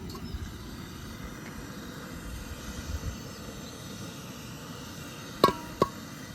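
Quiet background with two sharp clinks about half a second apart near the end, each with a short ring.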